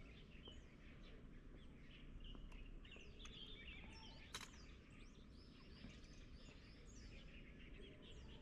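Faint chirping and calling of several small birds over low outdoor background noise, with a single sharp click about four seconds in.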